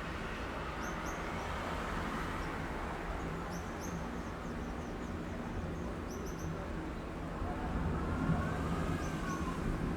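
City street traffic making a steady low rumble that grows louder near the end, with small birds chirping in short high bursts every couple of seconds.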